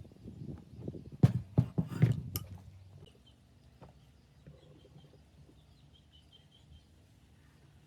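A quick run of knocks and clicks, the loudest a little over a second in and again at about two seconds, dying away by about three seconds in; faint high chirps go on quietly after.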